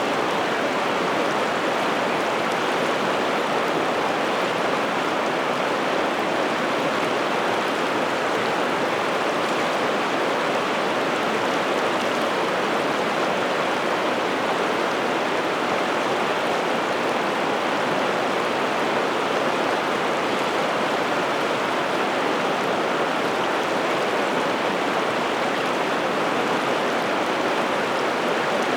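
Piteälven river water rushing: a steady, even flow with no breaks.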